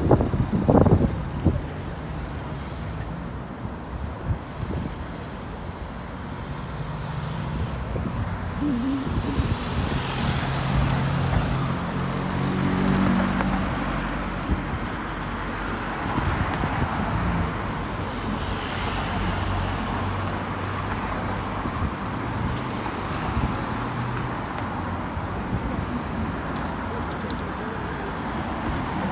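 Road traffic passing one vehicle after another, cars and heavier vehicles among them. A heavy vehicle's low engine hum rises and fades through the middle.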